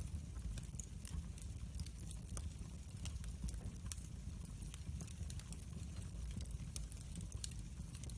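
Wood fire crackling, with frequent irregular sharp pops and snaps over a low rumble of burning.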